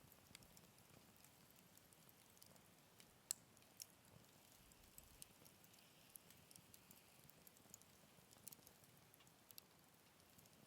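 Wood fire crackling in a Picogrill 398 fire stand: sparse sharp pops and ticks over a faint low hiss, with one louder pop a little over three seconds in.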